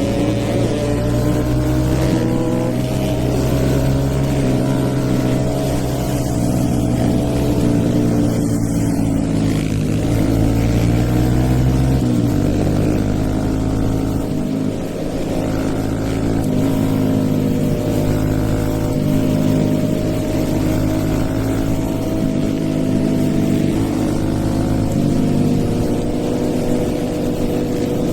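Hero Eco 150's single-cylinder four-stroke engine, on a stage 2 tune, running under way as the motorcycle is ridden. The revs slowly rise and ease, with a clear drop in engine pitch about twelve seconds in and another change near the end.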